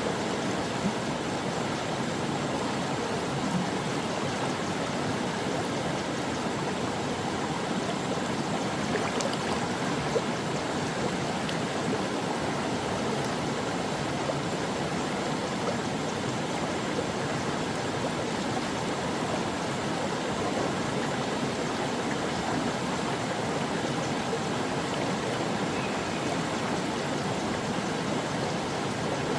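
Stream water flowing and gurgling over rocks, a steady rushing with small splashes.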